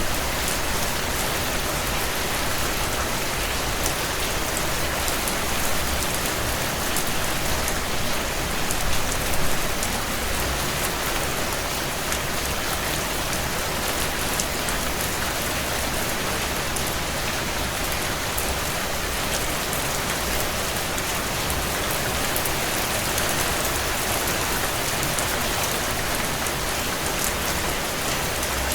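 Heavy rain falling steadily on a tin roof, a dense even hiss of drops with fine individual taps, swelling briefly about nine seconds in.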